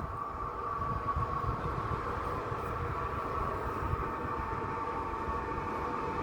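Passing train: a steady low rumble with a faint steady whine running through it.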